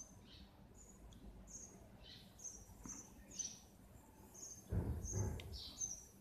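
Faint, short, high chirps repeating irregularly, one or two a second, some sliding down in pitch: a small bird calling. About three-quarters of the way through comes a brief low bump and rustle.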